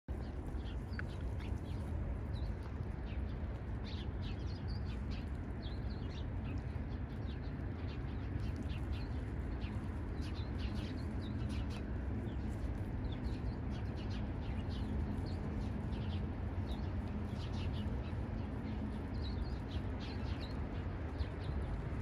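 Small birds chirping, many short, quick high calls scattered throughout, over a steady low rumble.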